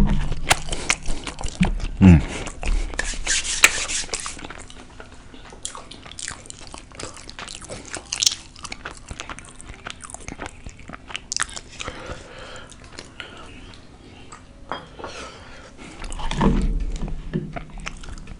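Close-miked biting and chewing of a burrito: wet mouth clicks and smacks with some crunching, busiest in the first few seconds and then steadier chewing.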